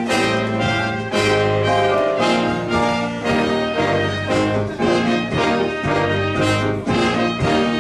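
Church orchestra playing an instrumental piece led by a brass section of trumpets and trombones, over a repeating bass line.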